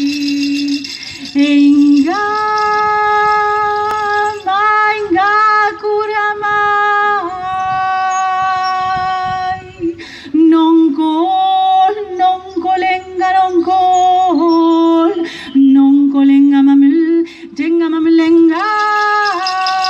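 A woman's wordless singing: long held notes that leap abruptly from one pitch to another with short slides, almost yodel-like.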